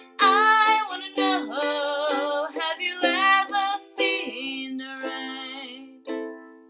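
Ukulele strummed with a voice singing over it. The singing stops about two-thirds of the way through, and a few more strums ring on and fade.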